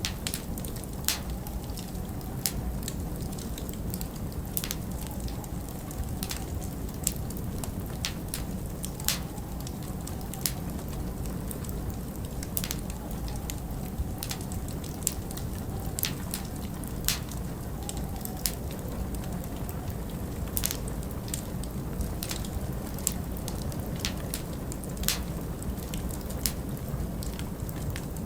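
Log fire crackling, with sharp pops every second or so over a steady low rumble of winter wind.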